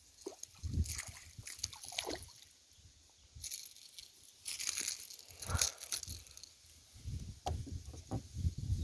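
Small pike being handled and unhooked in a boat: scattered rustles, clicks and light splashes, with low rubbing knocks near the end.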